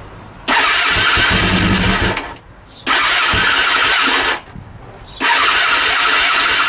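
Rebuilt Honda CB400 inline-four engine being cranked on its electric starter in three bursts of about a second and a half each, stopping abruptly between them, without catching and running: the same failure to start as on the earlier attempt.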